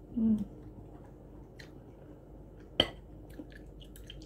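Close-up chewing and mouth sounds of people eating noodles and grapes, with a short low hum just after the start and faint scattered clicks. One sharp click about three seconds in.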